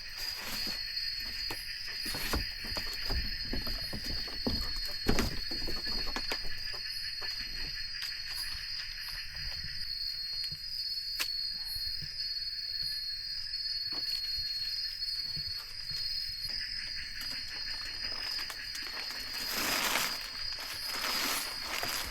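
Steady, high-pitched chorus of forest insects, with scattered knocks and clicks of handling over it in the first half, the sharpest about five seconds in.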